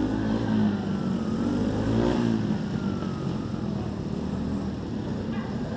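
Pit bike engines running and revving, the pitch rising and falling as the throttle opens and closes.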